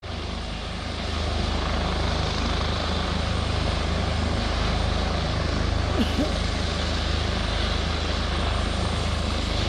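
Helicopter flying, a steady rotor and engine drone with a deep rumble, growing a little louder about a second in.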